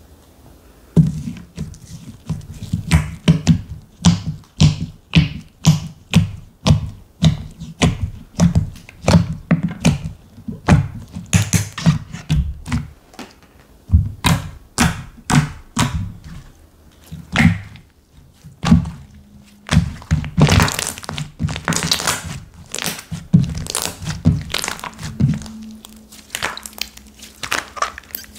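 Slime being squeezed and folded by hand, making a steady run of dull popping thunks, about two a second, with a few crackly squelches in the second half.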